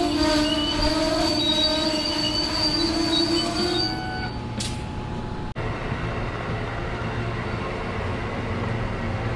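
Train passing on the rails: steady squealing tones ring over the wheel noise and fade out about four seconds in, leaving a steady rumble of wheels.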